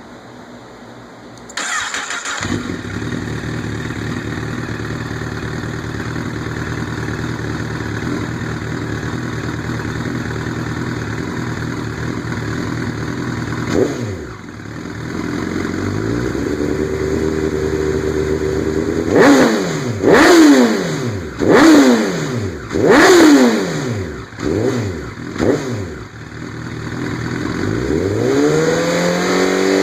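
2008 Honda CBR1000RR's inline-four engine through an Arrow Indy titanium race exhaust with the dB killer removed. It starts about a second and a half in and idles steadily. In the second half it is revved in a string of about six sharp throttle blips, ending with a slower climb in revs.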